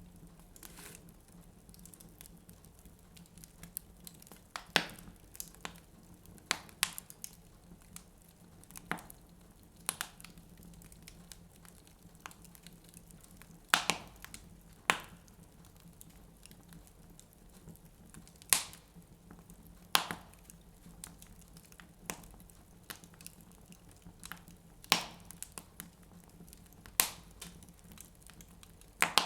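Wood fire burning in a fireplace, crackling with irregular sharp pops, about a dozen loud ones spaced a second or several apart, over a quiet background.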